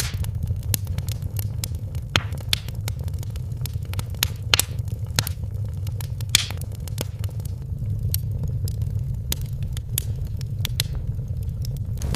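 Wood fire crackling and popping in a fireplace over a steady low rumble of the flames, with a few louder pops among the many small crackles.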